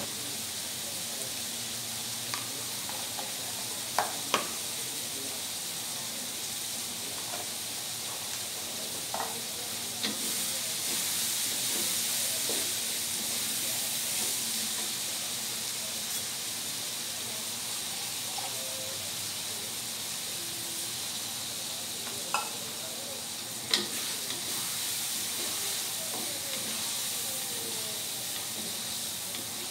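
Salted squid sizzling in chili sambal in a nonstick wok as the sauce cooks down, stirred with a wooden spatula that knocks against the pan a few times.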